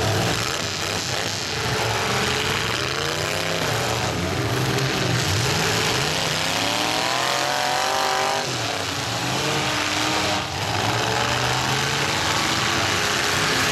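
Several demolition derby cars' engines running hard, revving up and dropping back over and over as they manoeuvre and ram one another, with one long rising rev near the middle.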